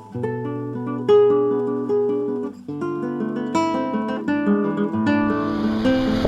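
Background music: acoustic guitar picking melodic notes and chords.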